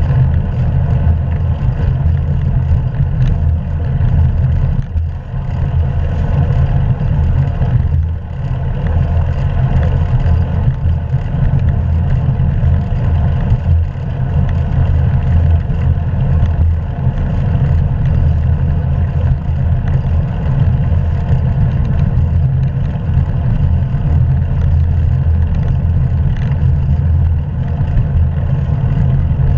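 Steady, loud low rumble of wind and road vibration on a bike-mounted action camera's microphone while riding.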